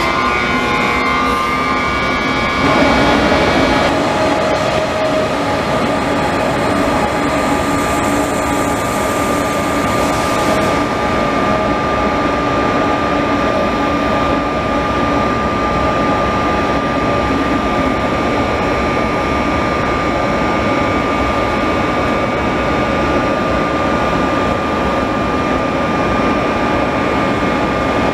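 For the first few seconds a KORAIL electric locomotive runs past. After that a KTX high-speed train moves slowly along the platform, a steady running noise with a constant high whine over it.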